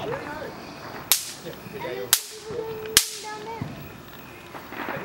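Fireworks exploding: three sharp bangs about a second apart, each trailing off in a short hiss.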